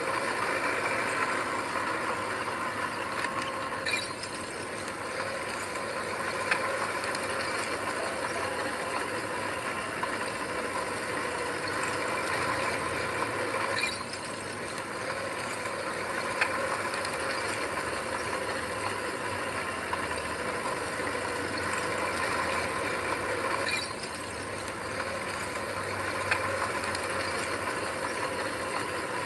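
Heavy earthmoving machinery running steadily, with several sharp clicks and knocks every few seconds.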